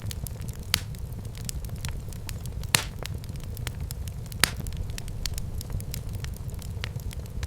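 Wood fire burning in a fireplace: a steady low rumble of flames with irregular sharp pops and crackles, two louder pops a little under three and four and a half seconds in.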